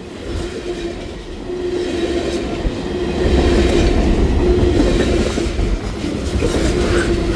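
BNSF freight train's cars rolling past, a steady rumble of wheels on the rails that grows louder about three seconds in, with a faint steady tone over it.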